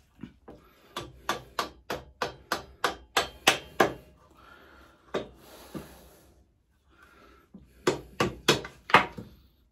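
Rubber hammer tapping a bolt with washers through the pit bike's frame: a quick run of about ten taps at roughly three a second, a short pause with two more, then a final group of four.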